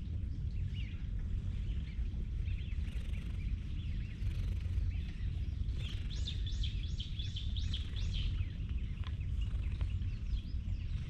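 Wild bird song: a quick run of descending chirps about six seconds in, with scattered fainter chirps before it, over a steady low rumble.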